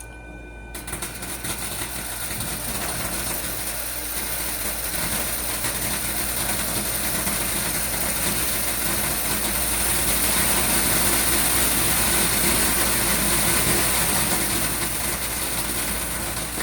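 A seed-sorting machine running as a batch passes through it: a dense, steady rushing noise with a strong high hiss. It starts suddenly about a second in and slowly grows louder.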